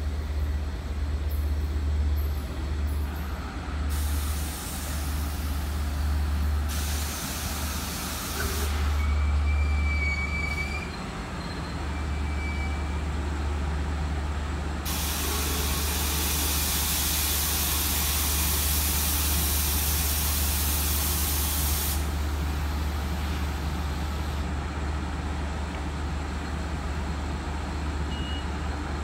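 Long Island Rail Road diesel push-pull train of C3 bilevel coaches pulling in and stopping, with a faint brake squeal about ten seconds in. Long hisses of released brake air follow, the longest lasting about seven seconds midway through, over a steady low rumble.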